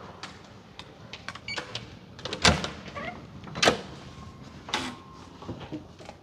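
Hotel room door being unlocked and opened: a run of small lock and latch clicks, with three louder knocks about a second apart near the middle.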